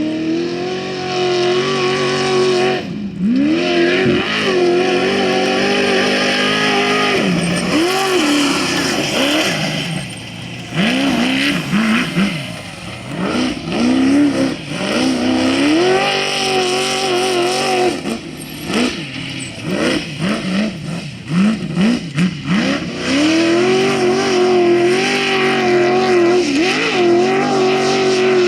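Off-road race vehicle's engine run hard at high revs, holding a high steady pitch for a few seconds at a time, with repeated lifts where the pitch drops and winds back up.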